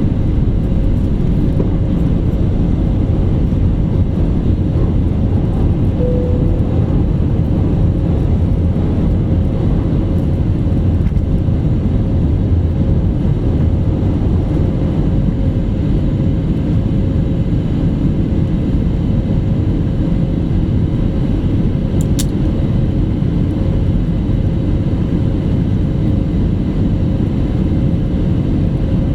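Jet airliner engines and airflow heard from inside the cabin during takeoff: a loud, steady rumble with a thin steady whine above it. A single short click comes about 22 seconds in.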